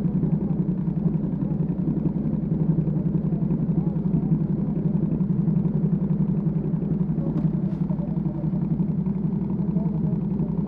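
Ducati Panigale V2S V-twin engine with a Termignoni exhaust idling steadily, with no revving. Two short faint ticks come about two-thirds of the way through.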